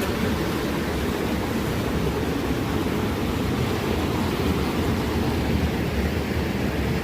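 Rushing water, a steady, even noise that holds at the same level throughout.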